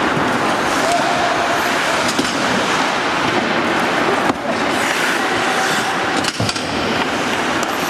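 Ice hockey play on a rink: a steady scraping hiss of skate blades on the ice, with a few sharp knocks from about halfway through.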